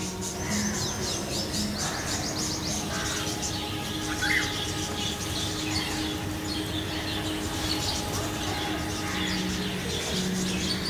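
Small birds chirping in quick series of high notes, thickest in the first few seconds, with soft background music of held notes underneath.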